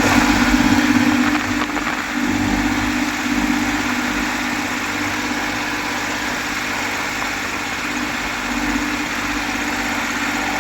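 Tractor engine idling steadily, a little louder for the first second or so.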